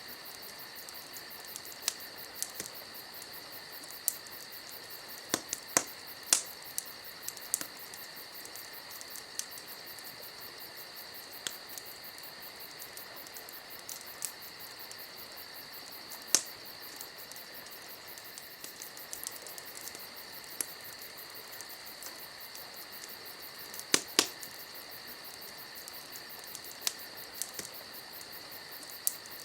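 Campfire crackling, wood giving off irregular sharp pops every second or few, with a loud double pop about four-fifths of the way through. Under it runs a steady high-pitched trill.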